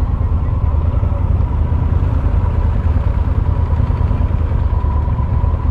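Motorcycle engine running steadily, a low rumble that holds even throughout.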